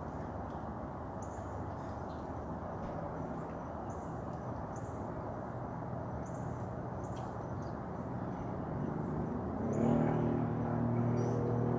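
Outdoor morning ambience: a steady low rumble with scattered short, high bird chirps. About ten seconds in, a motor's steady hum with several pitched tones comes in and grows louder.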